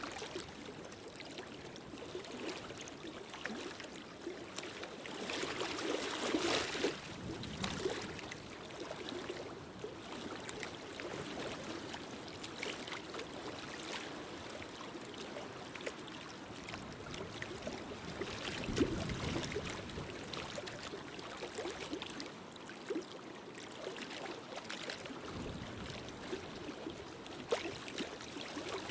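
Fireplace fire crackling steadily, with scattered small pops and a few brief louder flare-ups.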